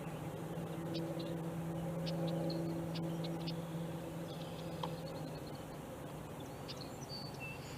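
A steady low motor hum that fades away about four seconds in, with faint scattered high ticks and chirps.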